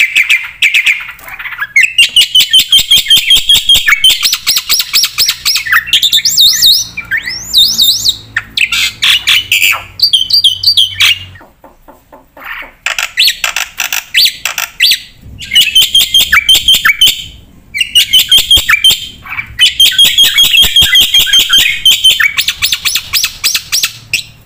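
Black-winged myna (jalak putih) singing its full varied song: long runs of rapid repeated notes mixed with whistled glides, broken by short pauses.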